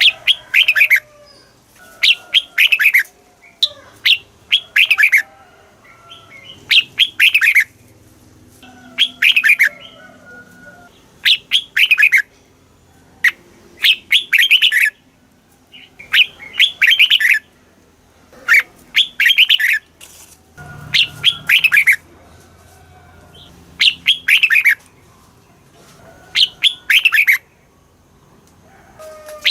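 Red-whiskered bulbul singing: short, loud phrases of two to four quick falling whistled notes, repeated about every two seconds with brief pauses between.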